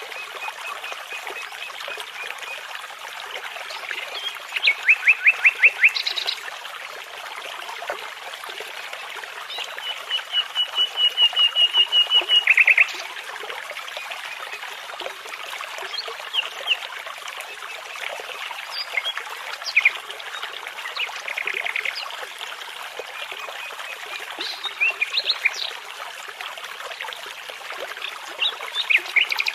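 Nightingales and other songbirds singing in separate phrases over the steady rush of a babbling brook. The loudest phrases are fast runs of repeated notes, one a few seconds in and a longer one around the middle, with shorter calls and chirps between.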